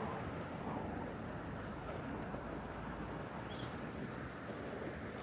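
Steady outdoor city ambience: a low, even rumble of distant traffic and street noise.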